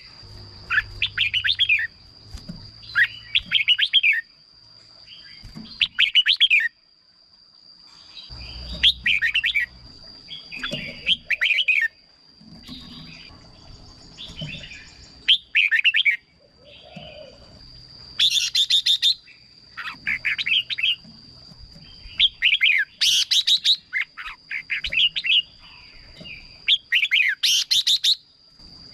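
Red-whiskered bulbul singing: short warbled phrases repeated every second or two, a few of them louder and harsher, with a steady high tone running underneath.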